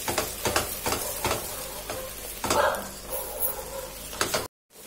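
Spiced fried onions with ginger-garlic paste sizzling in oil in a non-stick pot, stirred round with a silicone spatula in repeated scraping strokes. The sound cuts out for a moment near the end.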